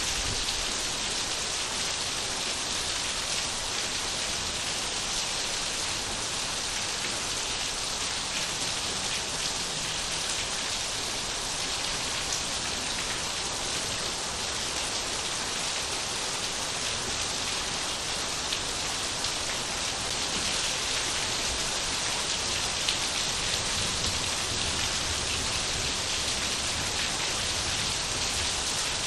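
Steady rain falling, with a dense, even hiss of drops.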